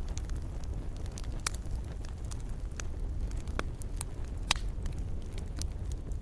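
Wood fire burning with a steady low rumble of flame and irregular crackles and pops, the sharpest about two-thirds of the way through.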